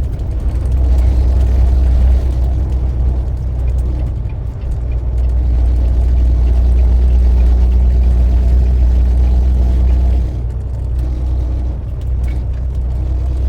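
Truck engine running under way with a strong low rumble, swelling about half a second in and easing off about ten seconds in.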